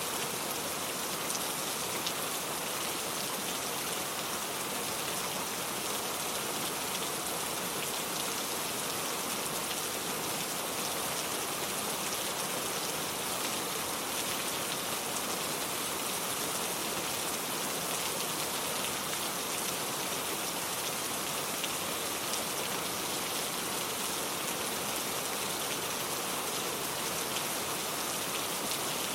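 Steady rain falling: an even, mostly high hiss with fine spattering drops, unchanging throughout.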